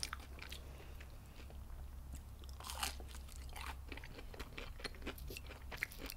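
Close-up chewing and crunching of battered fried shrimp, in irregular crisp crackles, with a louder crunchy stretch about three seconds in.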